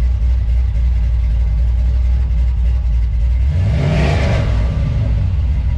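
LS V8 in a 1995 Chevy truck running through a true-dual 2.5-inch exhaust with Flowmaster 40 mufflers, dumped at the axle, a steady low rumble while driving. About three and a half seconds in the engine speed rises quickly and falls back.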